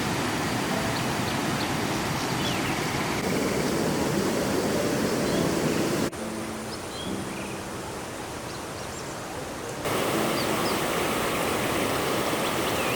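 River water rushing steadily over rocks, with faint short chirps above it. About six seconds in, the rush drops to a quieter level and comes back up near the ten-second mark.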